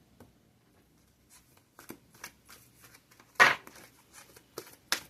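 Tarot cards being shuffled and handled: scattered soft clicks and flicks, with a sharp tap about three and a half seconds in and another near the end.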